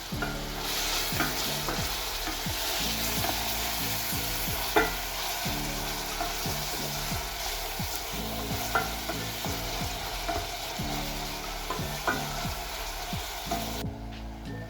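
Food sizzling as it fries in a pan, with a few sharp clicks of a utensil as it is stirred; the sizzling cuts off shortly before the end. Soft background music plays underneath.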